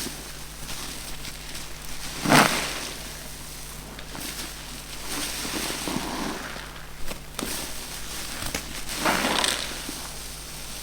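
Car-wash sponges squeezed by hand, each squeeze a crackling, crunchy squish. The loudest comes about two seconds in, with more around the middle and near the end.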